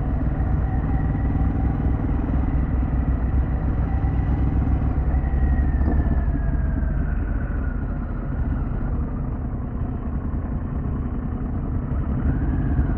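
Harley-Davidson Pan America's V-twin engine running as the motorcycle is ridden along, with steady road noise. The engine pitch falls as the bike slows about halfway through, then picks up again near the end.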